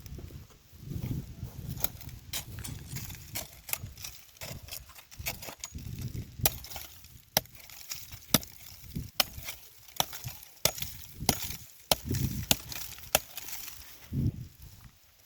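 A long run of sharp, irregular knocks and snaps, woody in character, with low rumbling between them.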